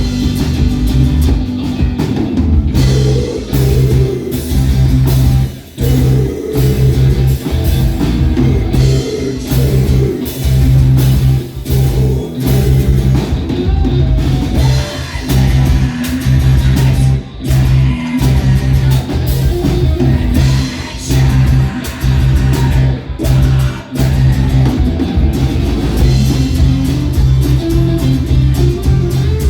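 Live rock band playing an instrumental passage on guitar and drums, with strong low notes and a few short breaks in the rhythm.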